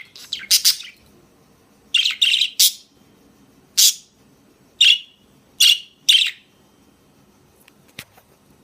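Young male budgerigar chirping in short bursts, about seven high chirps with pauses between them, and a small click near the end.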